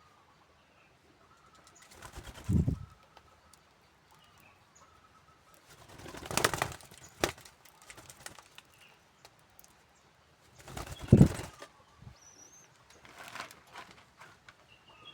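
Spotted doves flapping their wings in a cage: three loud bursts of flapping, about two, six and eleven seconds in, with a sharp click after the second and softer flutters near the end.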